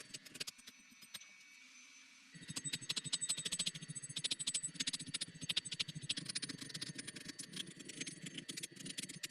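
Angle grinder working on steel: a steady whine under a dense, rapid rattling crackle, which gets louder and fuller about two seconds in.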